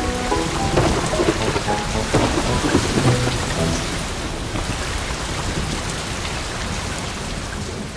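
Rainstorm sound effect: steady heavy rain with low thunder rumbling, louder in the first few seconds and slowly getting quieter.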